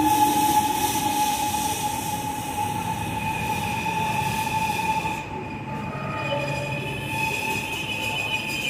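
MTR electric train pulling into the platform and slowing to a stop, with a steady high-pitched tone and running noise. The running noise dies away about five seconds in as the train halts.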